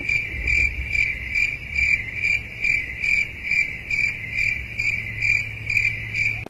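Cricket chirping steadily, in evenly spaced chirps about two and a half a second, over a low hum.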